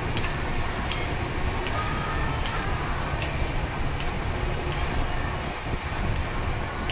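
Steady rumble of a passenger train heard from inside the moving carriage, with scattered handclaps keeping time for a devotional kirtan and faint chanting.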